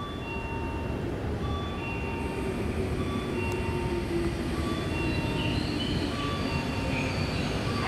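Tobu Skytree Line electric train running at the station platform. The low rumble builds slowly, with a repeating pattern of short beeping tones over it.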